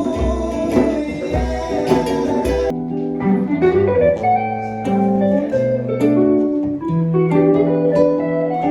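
Acoustic and electric guitars jamming together, with the electric guitar playing held, sustained notes over the strummed acoustic. A low, thumping drum beat drops out about three seconds in, leaving the guitars alone.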